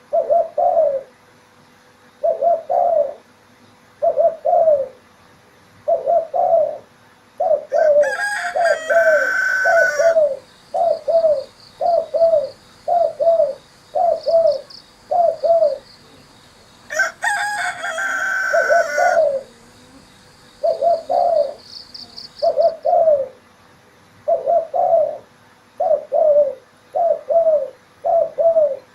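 Spotted dove (tekukur) cooing over and over, short coos in clusters of two to four. A rooster crows twice, each time for about two seconds, louder than the coos, and a faint high trill from a small bird runs between the crows.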